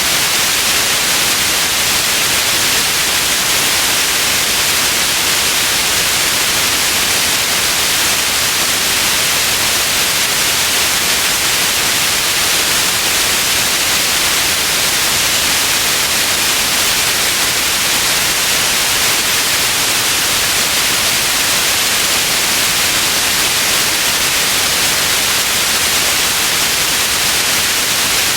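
Steady, unbroken white noise, a hiss strongest in the upper frequencies, with no change over time.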